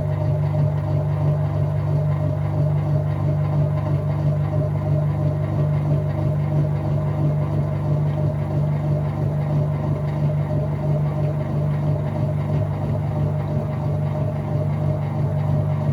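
Whirlpool top-load washing machine running mid-cycle with a steady motor hum.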